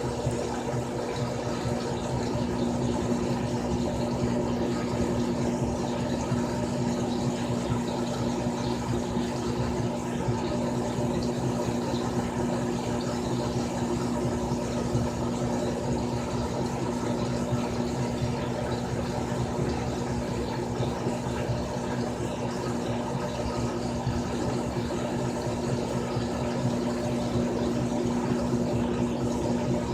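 Frigidaire Gallery Series top-load washing machine running, its motor giving a steady, even hum with no breaks or changes.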